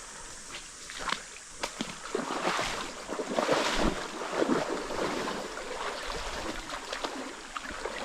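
Stream water running, with irregular splashing and sloshing close by that is loudest through the middle.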